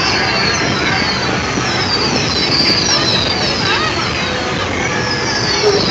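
Fireworks display: a steady loud din with many short, high whistles falling in pitch, overlapping one after another.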